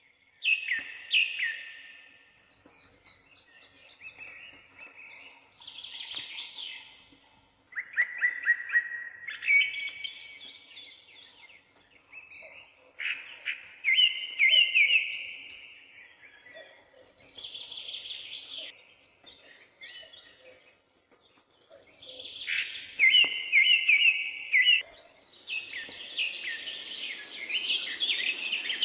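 Songbirds singing: short, bright phrases of quick notes repeat every few seconds. A steady hiss builds up near the end.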